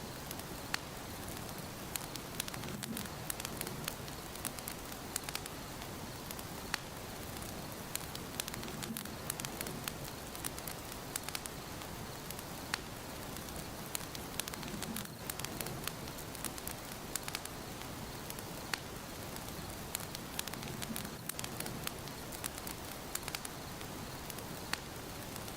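Wood fire burning in a fireplace, crackling: many irregular sharp pops and snaps over a steady hiss, with a low rumble of the flames swelling now and then.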